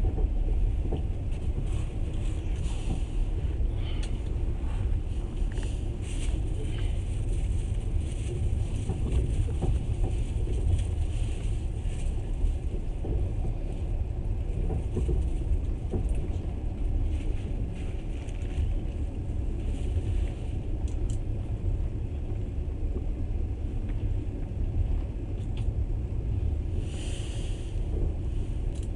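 Passenger train running at speed, a steady low rumble of wheels on rails heard from inside the carriage, with a short hiss near the end.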